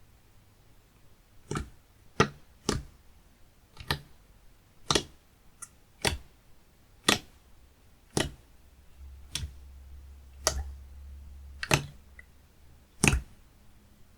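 Slime being worked by hand, giving a dozen or so sharp click-pops of trapped air, about one a second at an uneven pace.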